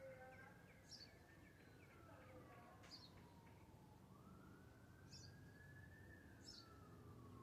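Faint birds chirping, short high calls about once a second, over a slow wail that rises and falls twice.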